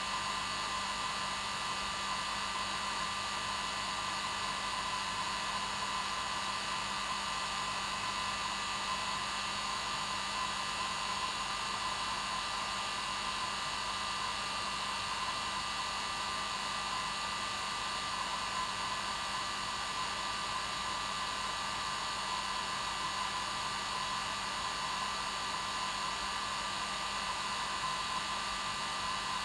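Hair dryer running steadily at its normal setting, a constant whooshing rush of air with a steady motor whine.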